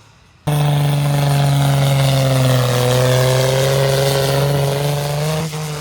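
Pulling tractor's engine running flat out at high revs, a loud steady drone that starts abruptly about half a second in and drops away near the end.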